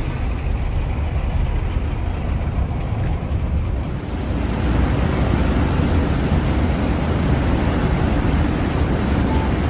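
River tourist boat under way: a steady low engine rumble with water rushing past the hull and wind on the microphone. The rushing hiss grows louder about four seconds in.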